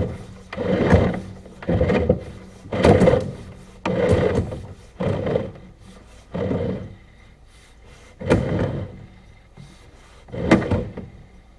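Repeated rubbing or scraping strokes, each about half a second long: about one a second at first, then further apart, nine in all.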